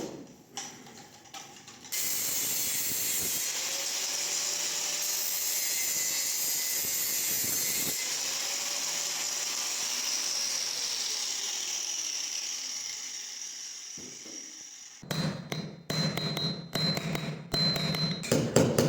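A steady high whirring hiss that slowly fades, followed near the end by rapid ratchet-like mechanical clicking.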